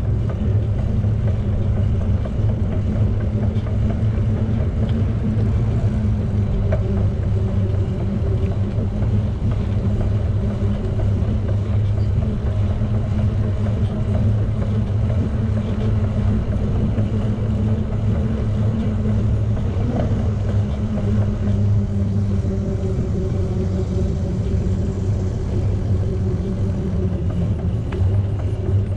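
Steady low rumble of riding a bicycle, heard through a camera mounted on the rider or bike: wind on the microphone and tyre noise on the path, with no let-up.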